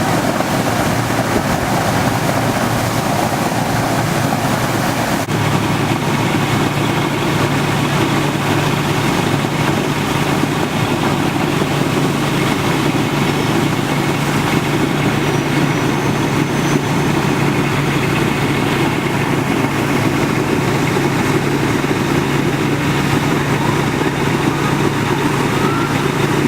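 A vehicle engine idling: a steady low hum sets in about five seconds in, over a constant rushing noise.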